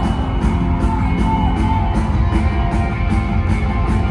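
Live rock band playing loud through a concert PA: electric guitar over drums, with cymbal hits about twice a second.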